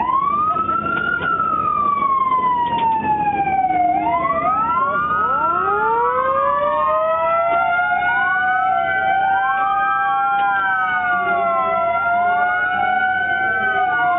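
Emergency vehicle sirens wailing, their pitch sweeping slowly up and down. One siren at first, joined from about four seconds in by several more sounding together out of step.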